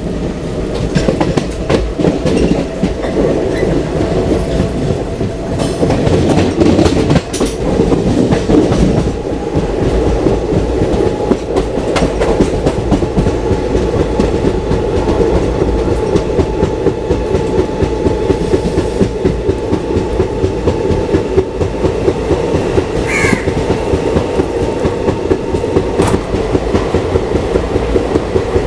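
Express passenger train running at speed, heard from on board: a steady rumble with the clickety-clack of wheels over rail joints, which grows into a regular beat near the end. A faint steady whine runs through the middle and cuts off abruptly a couple of seconds before the end.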